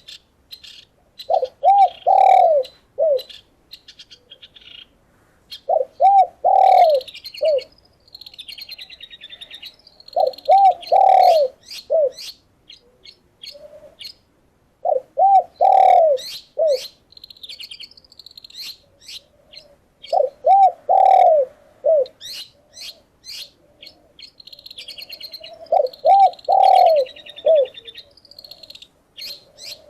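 A dove cooing a four-note phrase, two short notes, a longer one and a short closing note, repeated about every five seconds. Behind it, songbirds chirp, trill and whistle with quick high notes.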